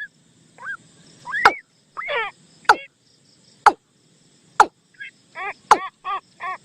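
Decoy bird-call recording for luring the 'nok tum' bird: runs of short, arched chirping notes, some in quick series of four or five, broken by sharp loud clicks about once a second.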